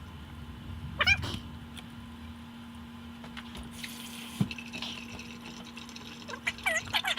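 A cat meowing, once about a second in and several times near the end, over a steady low hum, with a brief rush of running water in the middle.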